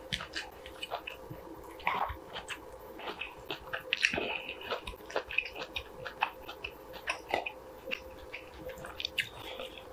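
Close-miked mouth sounds of a person chewing a mouthful of soft kimchi stew and rice: a string of wet smacks and clicks, loudest about four seconds in, with a wooden spoon scooping through rice in a wooden bowl.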